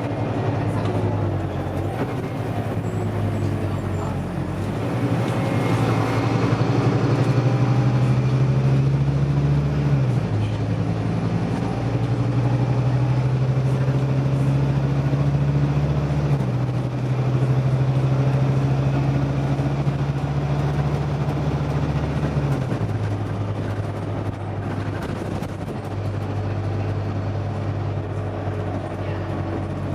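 Scania OmniDekka double-decker bus engine running on the move. Its note shifts in steps about a third of the way in, around halfway and again later, as the gearbox changes gear, over steady road noise.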